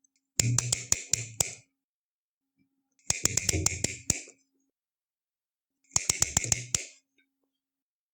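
Three short bursts of rapid clicking, each about a second long and made of five or six sharp clicks, separated by silence.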